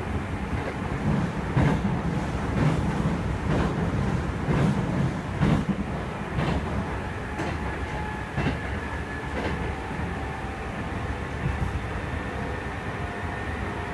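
Kintetsu 2430-series electric train running, heard from inside motor car Mo 2462: a steady rumble with rail-joint clacks about once a second, which stop about ten seconds in. A faint steady high tone comes in during the second half.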